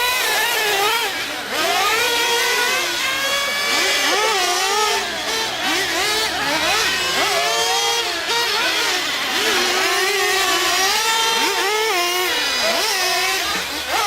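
Several nitro RC truck and truggy engines revving up and down, their high-pitched notes overlapping and crossing as the throttles open and close.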